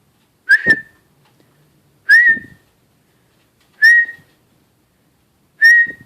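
A person whistling short, rising-then-level notes at a parrot, four times about a second and a half apart, to make the bird pin her eyes.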